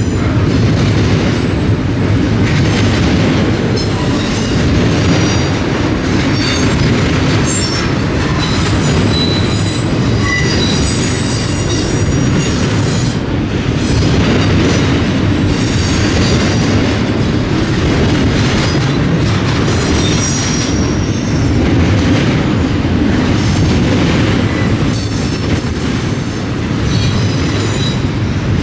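Freight train cars rolling past: a steady heavy rumble of wheels on rail, with frequent clicks and brief high-pitched wheel squeals.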